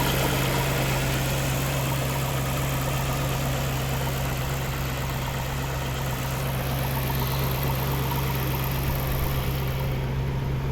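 Maserati 4200 Spyder's 4.2-litre V8 idling steadily with an even, unchanging low hum.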